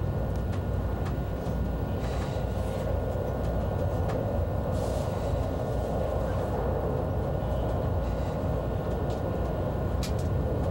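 Steady rumble of an ICE high-speed train running on the rails, heard from inside a passenger car, with a few faint clicks.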